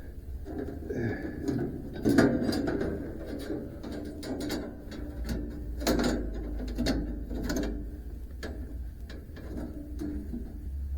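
Irregular metallic clicks, clanks and ratcheting from hand work on a band sawmill during a blade change, with a low steady hum underneath.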